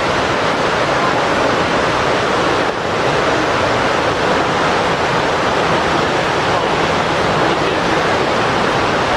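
Steady rushing roar of Victoria Falls, the Zambezi's water falling and its spray drifting through the rainforest, with a brief slight dip in loudness about three seconds in.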